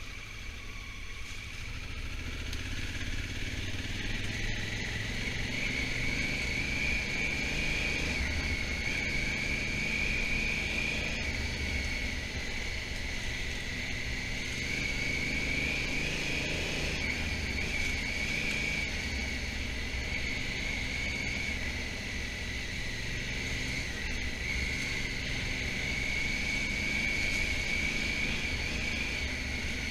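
Honda Africa Twin motorcycle engine running under way, mixed with wind and road noise. It grows louder over the first few seconds, then holds steady.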